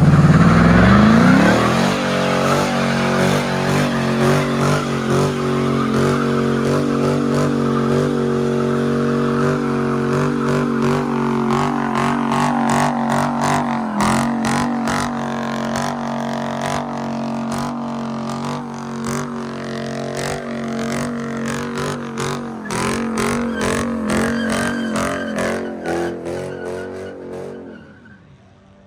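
A car doing a long burnout: the engine revs up in the first couple of seconds and is held at high revs while the rear tyres spin and squeal, then dies away near the end.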